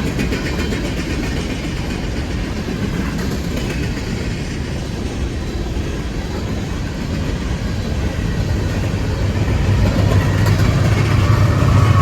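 Long Union Pacific freight train passing, its cars rumbling steadily over the rails. From about nine seconds in, a mid-train distributed-power locomotive's low engine drone grows louder as it approaches.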